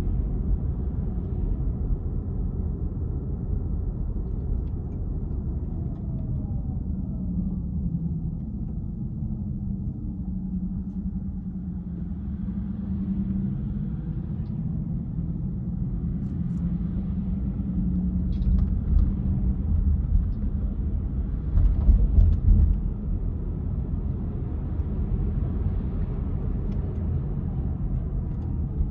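Car being driven on city streets: a steady low rumble of engine and tyres, the engine note slowly rising and falling with speed, and a louder rumble briefly about two-thirds of the way through.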